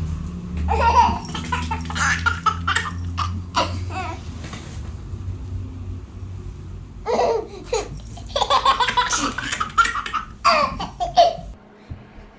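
A baby laughing: two spells of repeated belly laughs and giggles with a pause between them, over a low steady hum.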